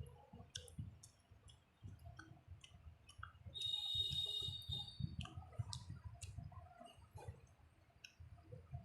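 Close-up eating sounds: wet mouth clicks, lip smacks and chewing of rice and hilsa fish curry, with soft low mouth noises throughout. About three and a half seconds in comes a brief shrill, hissy sound lasting about a second, the loudest moment.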